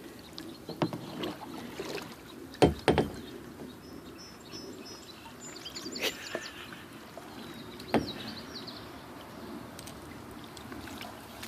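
Kayak hull knocked several times, sharp hollow knocks with the loudest pair about two and a half seconds in and single ones near six and eight seconds, over faint water noise. Faint high bird chirps come in now and then.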